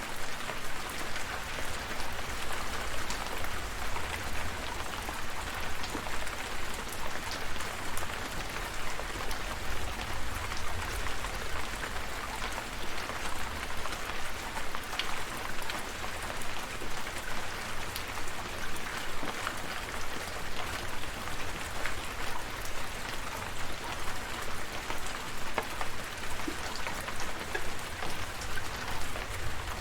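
Steady rain, with many individual drops ticking close by over a constant hiss and a steady low rumble underneath.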